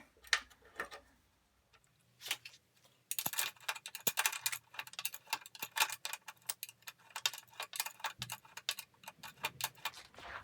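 Ratchet wrench clicking rapidly as bolts are run up. A few metallic clinks come first, then after a short pause the clicking runs on steadily.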